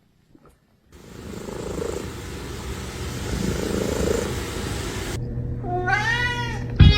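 A cat meows once, a drawn-out call that rises and then falls in pitch, after a few seconds of steady noisy background. A sharp knock follows near the end.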